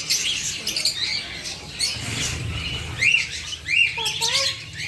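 Many small caged birds in a pet shop chirping and squawking over one another: short rising-and-falling chirps and constant high twittering.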